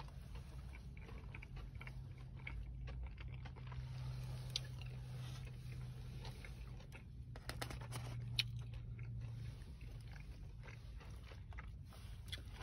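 Close-up chewing and biting of a breaded fried chicken finger, with soft crunches of the breading, most of them about seven to eight seconds in.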